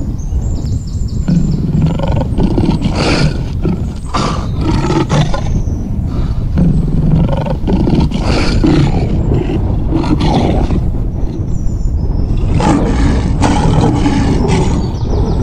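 Male lion roaring, a string of deep calls repeated every second or two.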